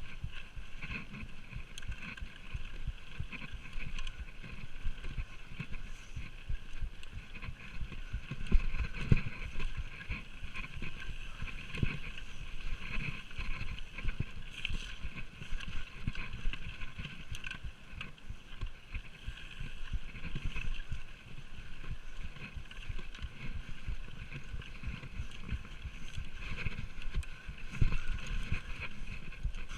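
Orange Five full-suspension mountain bike rattling and knocking continuously over a rough, rooty trail at speed, with constant irregular bumps and a steady rushing hiss.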